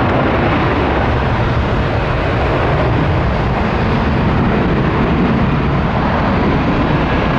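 Jet airliner engine noise, a loud steady rush.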